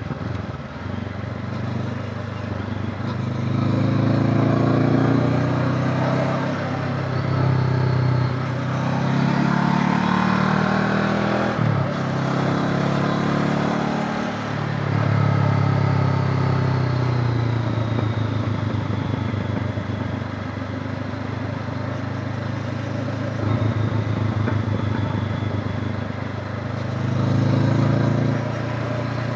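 Honda CB500X's parallel-twin engine under way, its pitch rising and falling again and again as the rider opens the throttle, shifts and backs off, with a brief sudden drop about twelve seconds in.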